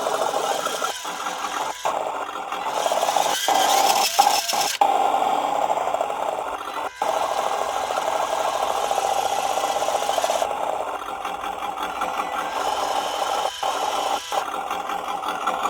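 Simulated engine sound from an RC truck's add-on sound-kit speaker, a raspy steady drone that drops out briefly several times. The dropouts are a fault: the sound kit cuts out as the truck's speed increases, cause not yet found.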